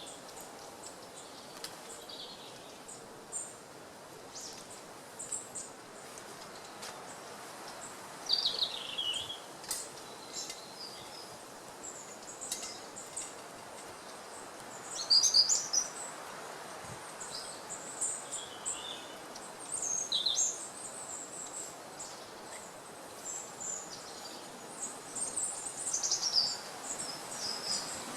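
Small woodland birds singing and calling in short chirps and downward-sweeping phrases, over a steady outdoor hiss with a few faint clicks.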